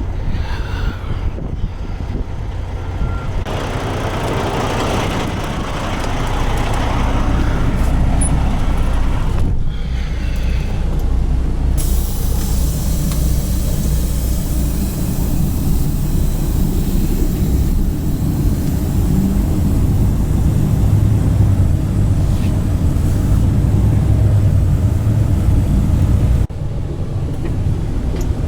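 Semi-truck diesel engine running with a steady low hum, with a burst of air hissing a few seconds in. About twelve seconds in a broad steady rush of noise starts and cuts off suddenly near the end, while the engine grows louder.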